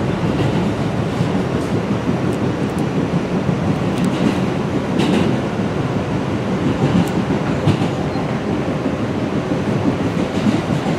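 R160B subway train rumbling steadily into a station, its wheels clicking now and then over the rail joints.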